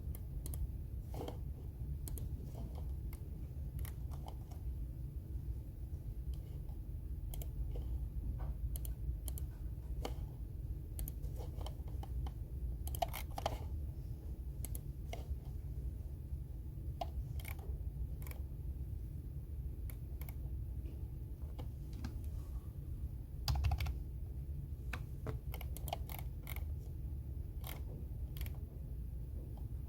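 Computer keyboard typing: irregular key clicks, some in short quick runs, over a steady low hum.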